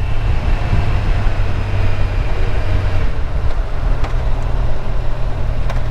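Kawasaki motorcycle engine running at a steady pace under way, with road and wind noise.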